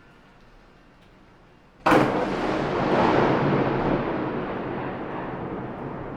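Thunderclap: a sudden loud crack about two seconds in, after near-quiet, then a long rumble that slowly fades while heavy rain keeps falling.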